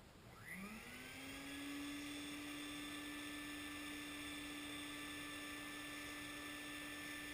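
Stinger wet/dry shop vacuum switched on: its motor spins up with a quickly rising whine, then runs steadily at full speed.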